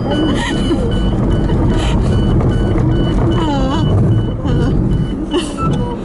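Daihatsu Hijet kei truck engine running under load while its reverse warning beeps steadily, about three short high beeps a second, as the truck is manoeuvred on a steep track.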